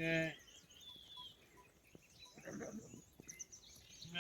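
A short livestock bleat that stops just after the start. Then faint bird chirps, with a brief, muffled lower sound about two and a half seconds in.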